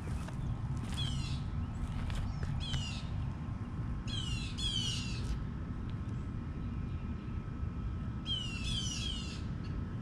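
A bird repeatedly giving harsh calls that slide downward, some single and some in runs of two or three, over a steady low background rumble.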